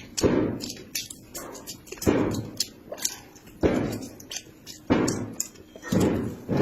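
Close-miked mukbang eating: chewing and mouth clicks, with a louder chewing burst every one to two seconds.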